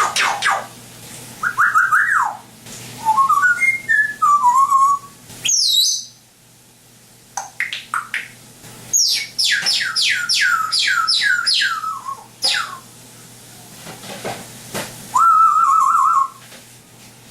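African grey parrot whistling and making sound effects: short warbling whistles, then a quick run of about eight falling whistles, and a wavering held whistle near the end.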